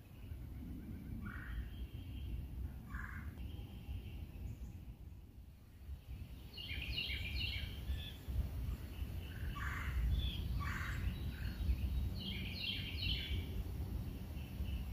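Wild birds calling in woodland: a few single short calls near the start, then quick clusters of chirps about six, ten and twelve seconds in, over a steady low rumble.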